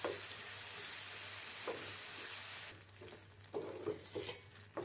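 Ground onion-and-spice paste sizzling in hot oil in a pan as a spatula stirs it. The sizzle cuts off a little past halfway, leaving a few short scrapes of the spatula near the end.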